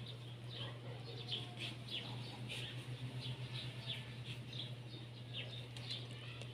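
Small birds chirping in the background: many short, high, falling chirps, a few each second, over a steady low hum.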